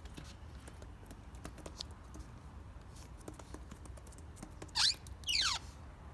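Budgerigar giving two short, high calls near the end, each sliding steeply downward in pitch, after a stretch of faint scratchy clicking.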